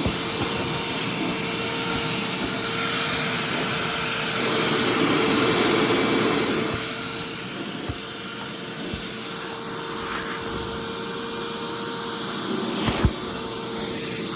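Hoover SteamVac SpinScrub carpet cleaner running, its motor holding a steady whine as it vacuums. The sound grows louder for a couple of seconds near the middle, and a few knocks come near the end.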